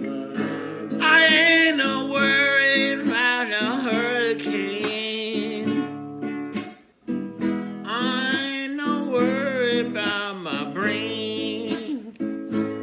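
A man singing over a strummed acoustic guitar, with a short pause in the singing about seven seconds in.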